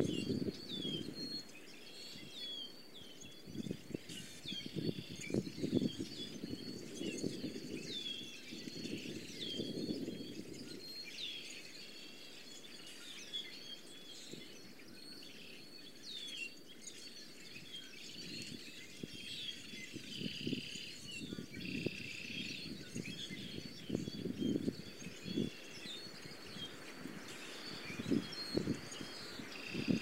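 Small songbirds chirping and calling in many short notes, a lot of them falling in pitch, with buzzier trills around two-thirds of the way in. Under them, gusts of low rumbling noise come and go.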